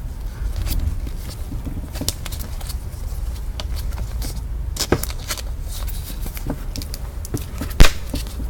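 Trading cards and packs being handled on a table: scattered light clicks and rustles, with one sharp tap near the end, over a low steady hum.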